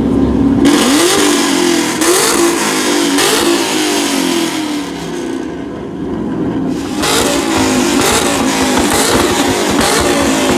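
Car engine revved hard again and again through a loud exhaust, the pitch climbing with each blip. It eases briefly about five and a half seconds in, then revs up again.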